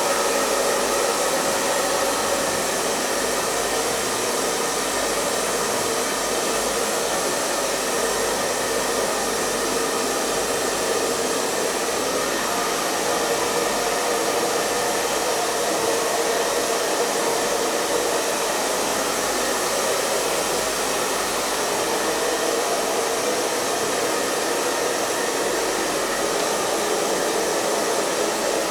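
Electric hair dryer running steadily on one setting, its fan motor and airflow making a continuous even rushing noise with a faint hum in it.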